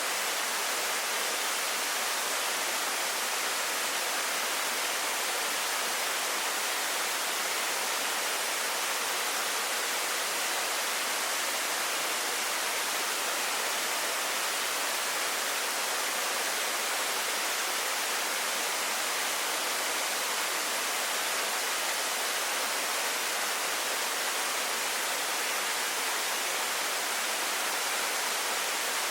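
A waterfall's steady rush, unchanging throughout, with the sound of the falling water sitting mostly in the mid and high range and little low rumble.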